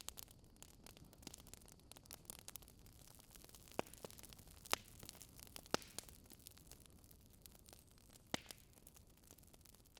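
Wood fire crackling: a faint steady hiss with scattered sharp pops, the loudest about four, five, six and eight seconds in.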